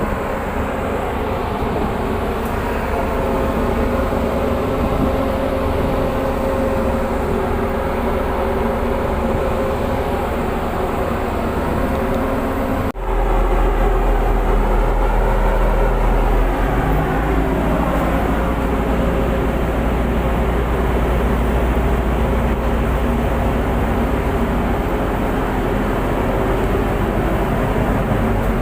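Tugboat's diesel engines running steadily, a loud low rumble with a hum of steady tones over it. About halfway through the sound breaks off for an instant and comes back with a heavier low rumble.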